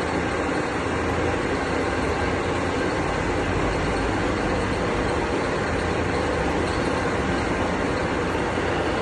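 A machine running with a steady, even noise that does not change.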